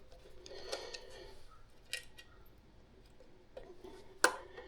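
Faint clicks and light taps of hand tools working on motorcycle parts, with a sharper click about two seconds in and another near the end.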